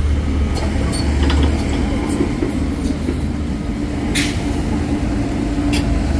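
Heavy diesel engine running steadily with a deep drone, with scattered metallic clicks and knocks and one short hiss about four seconds in.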